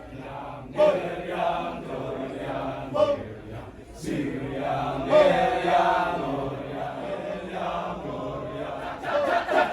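Kecak chorus of voices chanting, with held sung tones in the middle and a few sudden loud accents.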